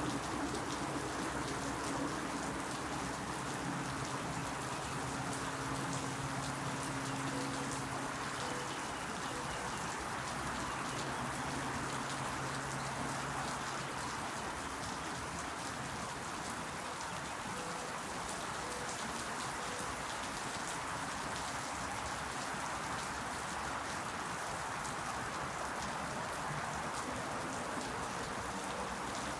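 Steady rain falling, a dense even patter of many small drops. A low steady hum sits under it and fades out about halfway through.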